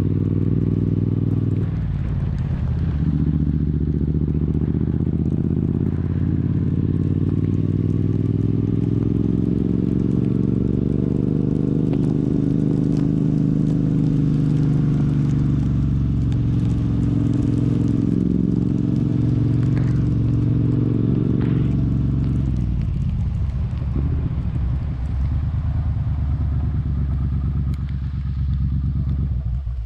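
Triumph motorcycle engine running steadily, its pitch rising slowly and falling again over many seconds, with a brief drop in engine note about two seconds in and another toward the end. It cuts off suddenly at the end.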